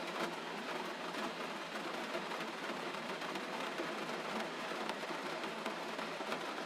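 Steady gentle rain: an even hiss with faint scattered ticks of drops.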